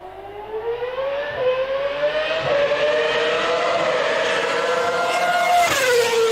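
Ferrari Formula One car's engine running at high revs as the car accelerates: a high whine climbing in pitch, with a brief dip at an upshift about a second and a half in. Near the end the pitch drops sharply as the car goes past.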